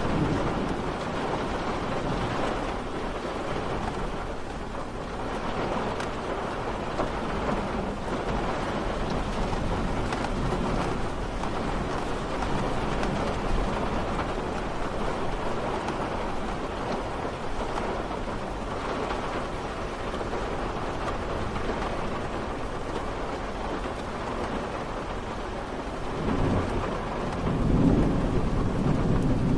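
Steady rain falling, with a low rumble of thunder that swells near the end.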